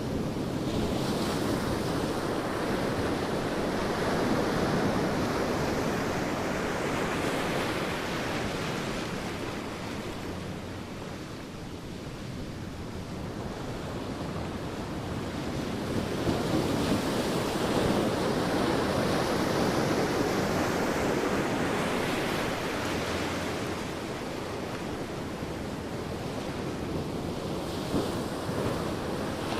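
Sea waves breaking and washing on a beach, a continuous surf that swells and ebbs slowly, with wind on the microphone.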